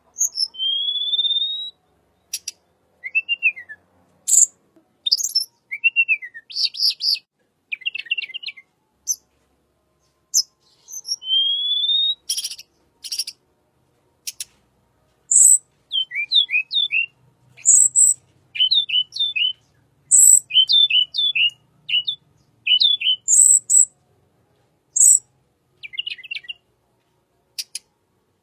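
Wild tledekan bird song played as a lure call: phrases of high chirps, slurred whistles and quick down-sweeping notes, with short pauses between phrases.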